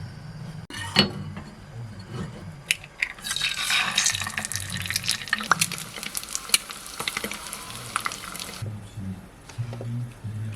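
Hot water poured into a cup-noodle cup, a steady splashing hiss that starts about three seconds in and stops after about five seconds. A few light clicks and knocks come before it.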